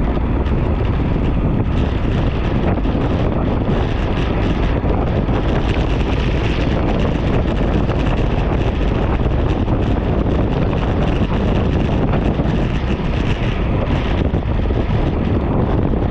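Wind buffeting the microphone of a camera on a moving bicycle: a steady, loud low rumble with hiss above it.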